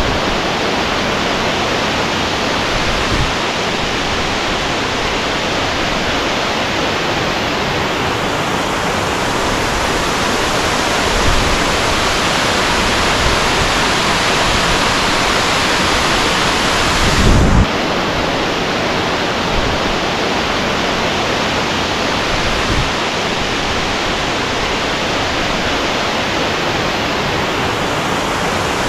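Waterfall and river water rushing steadily, a dense even roar. About 17 seconds in there is a brief low thump and a slight change in the sound.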